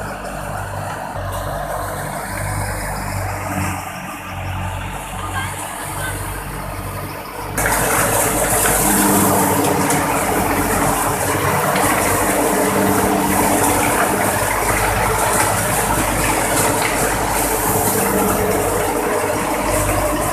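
Tractor-driven thresher running steadily on the New Holland 480 tractor's power, threshing mustard, the tractor engine's low throb under the machine's clatter and rush. About seven seconds in the sound jumps suddenly louder and brighter, then holds steady.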